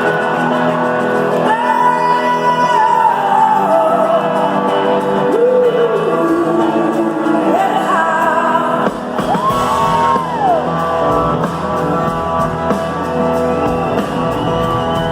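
Live rock band playing an instrumental passage in a large hall: sustained chords under a lead line that slides up and down between notes. A few shouts and whoops rise from the audience.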